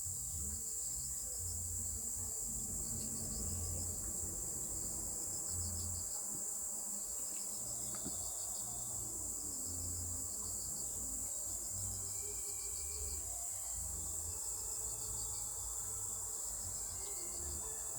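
Crickets chirping without a break: a high, steady insect drone with rapid pulsed trills repeating over it.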